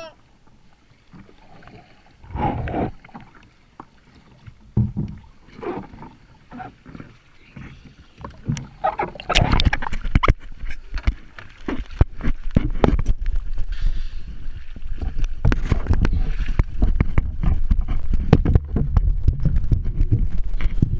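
Sea water splashing: a few separate splashes, a heavy splash about nine seconds in, then continuous loud churning and splashing of water.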